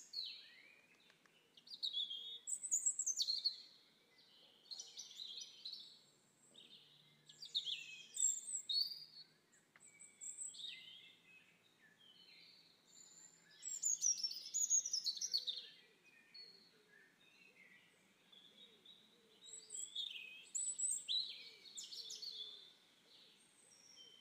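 Songbirds singing: runs of quick, high chirping and warbling phrases every couple of seconds, with short quiet gaps between them.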